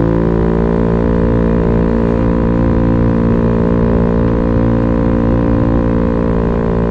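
Italjet Dragster 125cc scooter engine running at a fairly steady speed through an Akrapovic racing slip-on muffler with the baffle removed, giving a loud, steady drone.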